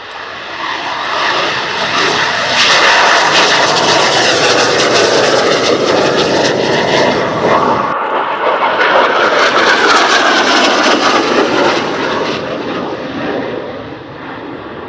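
McDonnell Douglas EAV-8B Harrier II's Rolls-Royce Pegasus turbofan running loud. The jet noise builds over the first couple of seconds, drops briefly about eight seconds in, then comes back and fades near the end.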